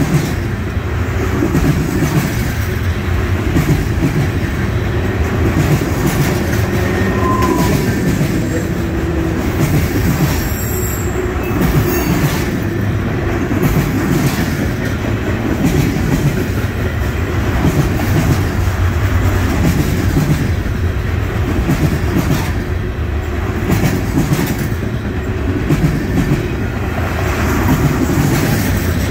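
Freight cars loaded with trash containers rolling past close by: a steady noise of steel wheels on rail with a repeating clickety-clack as the wheel sets cross the rail joints.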